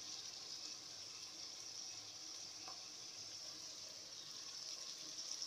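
Steady sizzle of onions, green pepper and carrots frying in an aluminium pot as marinated chicken is scraped in.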